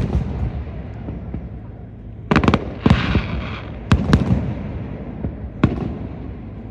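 Aerial fireworks bursting: a run of sharp bangs, some in quick pairs, with a crackling fizz right after the bangs about three seconds in.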